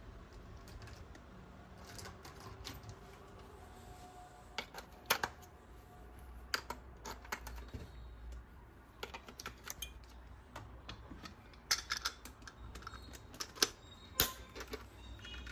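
Irregular light clicks and taps, singly and in small clusters, from plastic toys and packaging being handled during unboxing.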